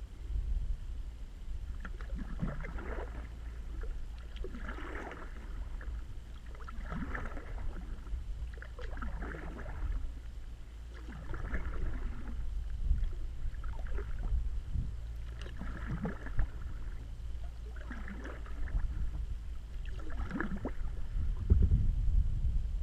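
Kayak paddle strokes in the water, a splashing swish about every two seconds at a steady, even pace, over a steady low rumble.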